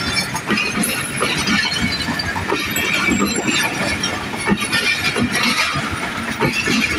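Pakistan Railways passenger coaches rolling past close by: a steady rumble of wheels on the rails, with irregular clicks over the rail joints and a few brief high metallic squeals.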